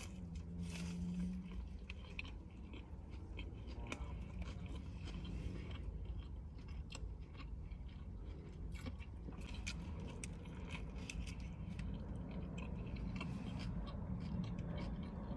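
A person biting into and chewing an Impossible Whopper burger close to the microphone, in a string of irregular small crunches and mouth sounds, over a steady low hum.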